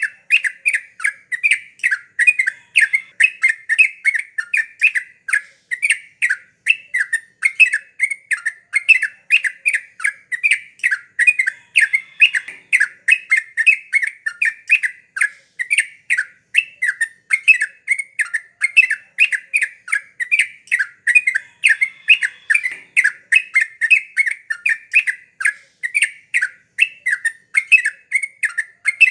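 Yellow-vented bulbul (trucuk) calling on and on, a fast run of short, bubbly chattering notes, several a second, with no pauses.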